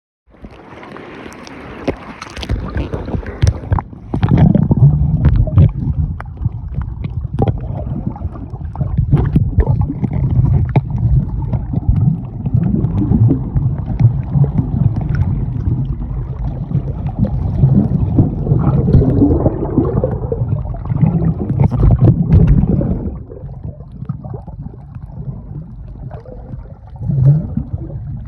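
Small speedboat under way: a steady engine and water rumble with many sharp knocks and thumps, as of the hull hitting the chop. It turns quieter for the last few seconds.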